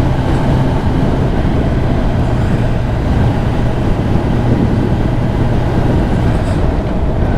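2023 Kawasaki ZX10R's inline-four engine running at a steady pace on the road, under a heavy rush of wind noise.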